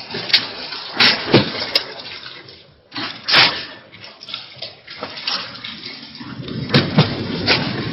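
Heavy rain pouring down in a dense wash of noise, with sharp knocks scattered through it, loudest about a second in, at three and a half seconds and near the end.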